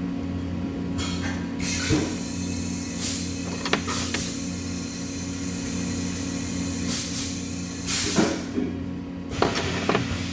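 Steady industrial machine hum, with short sharp hisses breaking in about six times and a few light clicks.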